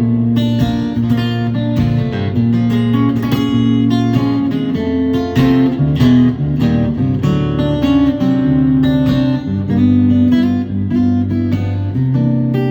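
Acoustic guitar playing an instrumental blues passage, plucked melody notes over a repeating bass line, with no singing.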